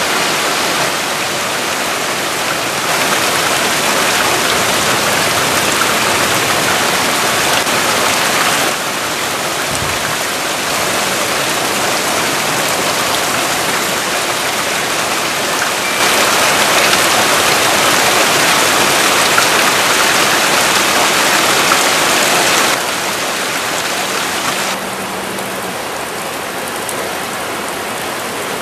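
Heavy rain pouring down, a steady hiss that jumps abruptly louder or quieter several times.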